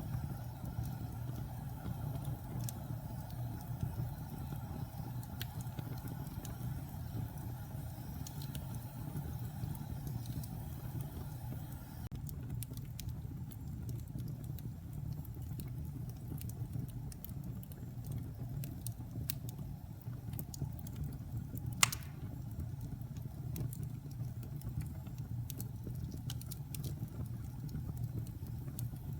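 Log fire burning in a fireplace: a steady low rumble of the flames with scattered small crackles, and one louder, sharp pop about three-quarters of the way through.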